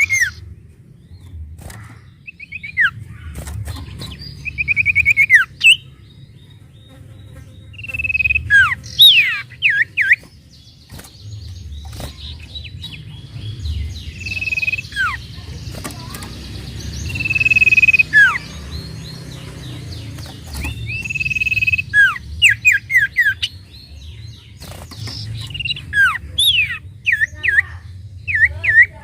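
Sirtu bird singing in repeated phrases: held whistled notes at one pitch, sharp downward-slurred whistles and quick trilled runs, with a steady low hum underneath.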